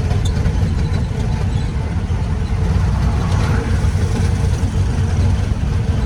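Engine of a 1970 Nissan 4x4 truck running steadily at idle.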